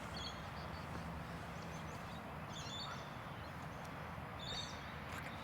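Steady open-air background noise with a few faint, short bird chirps: one near the start, one in the middle and one near the end.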